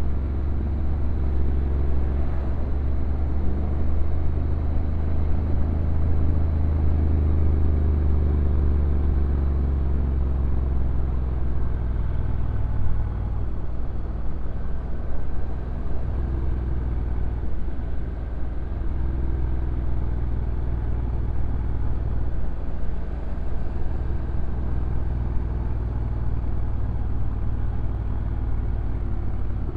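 Stock Honda NC750X DCT's parallel-twin engine running at low revs on a downhill ride, under a steady low rumble. The engine note drifts up and down in pitch.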